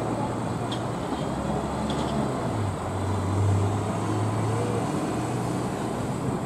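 A vehicle running with a steady low hum that grows a little stronger around the middle.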